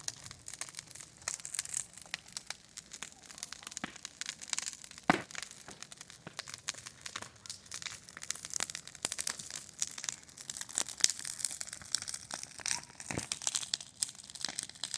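Bonfire burning, crackling with many irregular small snaps and pops, and a few sharper pops about five and thirteen seconds in.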